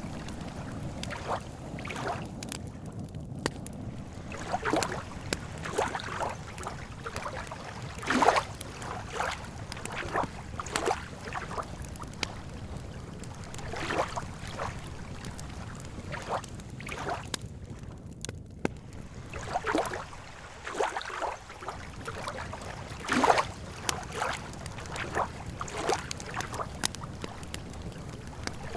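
Lake water lapping at the shore in irregular slaps and gurgles, over a low steady rumble.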